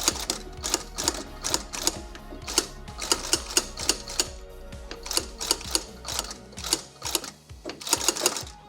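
Irregular sharp mechanical clicks and clacks from hand tools working on the glove's leather, about two to three a second and sometimes in quick clusters, over background music.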